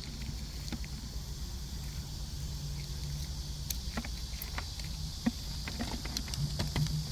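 Outdoor ambience with a steady high drone of insects and a low steady hum, broken by scattered small clicks and crackles from hands working at the trap.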